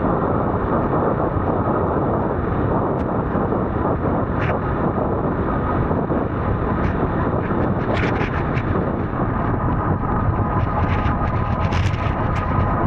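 Steady, loud wind noise buffeting the microphone, with scattered sharp clicks and rattles, most of them around two-thirds of the way through; a faint high hum comes in near the end.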